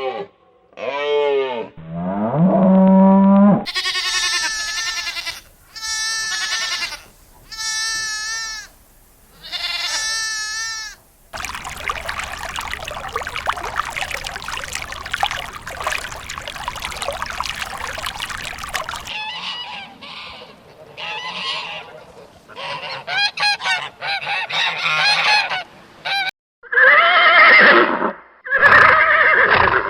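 Farm animal calls, one clip after another: repeated calls with wavering pitch in the first third, a long stretch of dense, noisy sound in the middle, then more loud pitched calls near the end.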